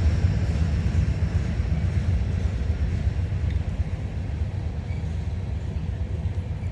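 Manifest freight train rumbling past, a steady low rumble that eases off slightly toward the end.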